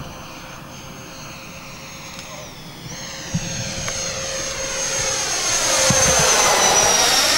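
Twin 70 mm electric ducted fans of a radio-controlled Boeing 737 model, a high steady whine that dips briefly in pitch about two seconds in. It grows louder as the plane flies past close by, peaking near the end with a slight drop in pitch as it passes.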